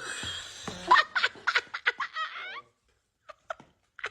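A person laughing in a quick run of short bursts that cuts off abruptly about two and a half seconds in, followed by a few faint clicks.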